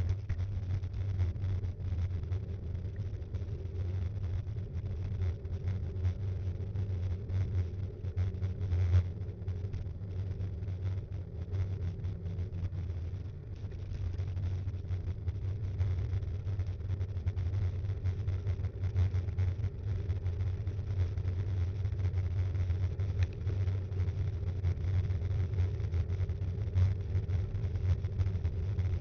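Steady low rumble of tyre and road vibration and wind from an action camera mounted on a Btwin Rockrider 5.1 mountain bike while riding, with small rattling ticks throughout.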